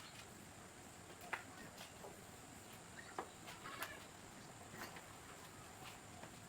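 Near silence: faint room tone with a few scattered, faint clicks or taps.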